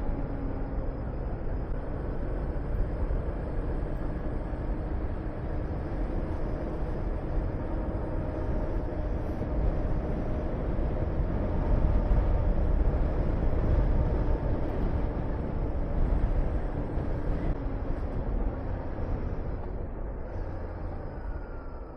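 Honda VTR250's 250 cc V-twin engine running while riding, under heavy wind rush on the microphone. The wind grows a little louder around the middle and eases near the end.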